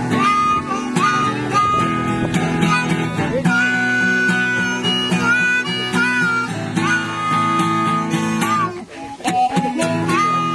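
Improvised blues on acoustic guitar and harmonica: the harmonica plays long held notes with pitch bends over the guitar's rhythmic accompaniment, with a brief break about nine seconds in.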